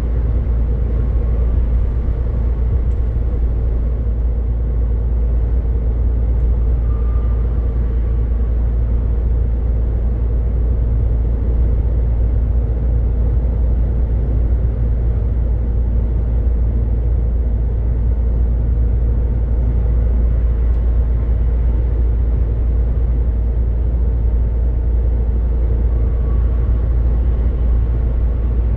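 MAN truck driving at a steady speed, a constant deep rumble of engine and road noise with no change in pitch or level.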